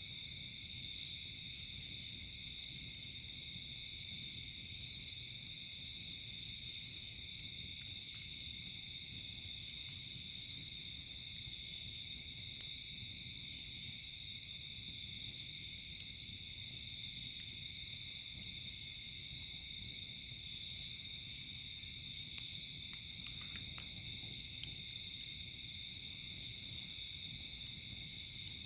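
Night chorus of crickets and other insects: a steady high trilling, with a still higher buzz that comes and goes every five or six seconds, and a few faint clicks.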